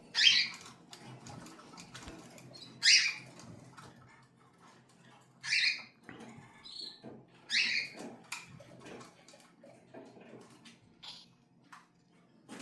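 Cockatiel giving four loud, harsh contact calls, each short, spaced about two to three seconds apart, with faint clicks and rustling between them.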